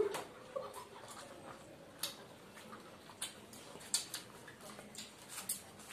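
Chewing and mouth sounds of people eating egg rolls: irregular soft clicks and smacks, unevenly spaced.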